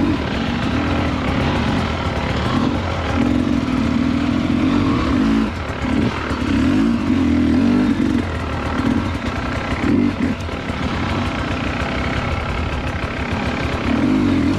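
Two-stroke dirt bike engine running on a trail ride, the throttle opened and closed in repeated bursts so the engine note rises and drops every second or two.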